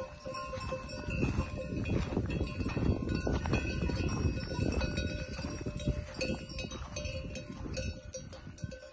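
Bells on a grazing sheep flock ringing steadily as the animals move, with scattered sharp clicks over a rough low rumble.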